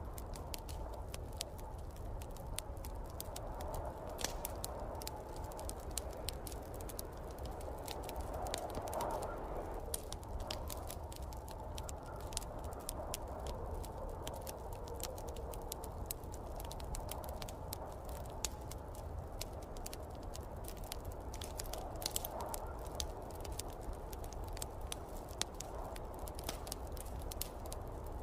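Wood fire crackling in a fireplace, with frequent sharp pops and snaps, over a steady low rumble and snowstorm wind that swells and eases every few seconds.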